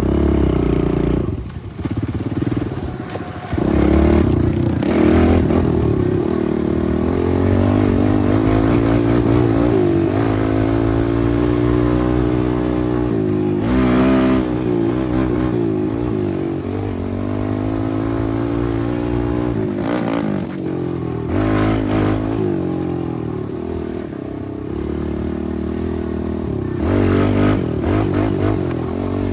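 Pit bike engine running under way, its pitch rising and falling over and over as the throttle is opened and closed and the gears change, with a few brief knocks and scrapes.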